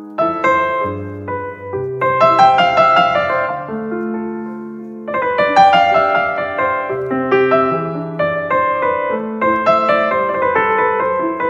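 Piano music: a melody over chords, with notes struck every half second or so.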